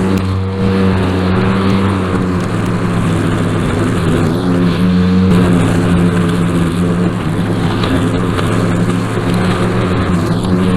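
Small petrol engine of lawn equipment running steadily under load, its pitch shifting slightly a few times.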